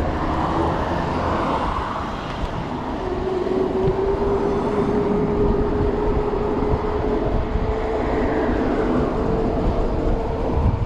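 Wind rushing over the microphone and road noise while riding an electric bike in city traffic. From about three seconds in, a steady whine slowly rises in pitch.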